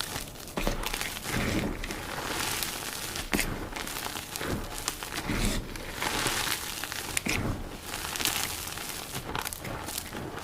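Dyed gym chalk blocks being crushed, crisp and crunchy: a dense, irregular crackling and crumbling.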